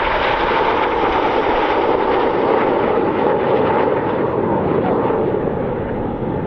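Red Arrows' BAE Hawk T1 jets flying past, a loud, steady jet noise with a constant whine, easing off slightly near the end.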